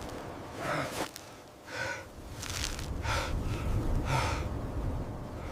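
A person breathing hard in a series of short, gasping breaths, about five or six in a few seconds, over a steady low rumble.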